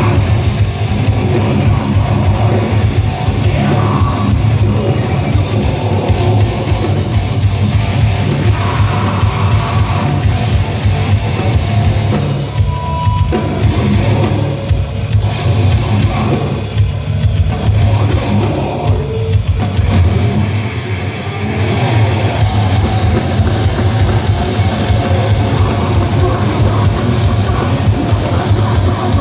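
Heavy metal band playing live: distorted guitars, bass and a pounding drum kit. The sound thins out briefly about twenty seconds in.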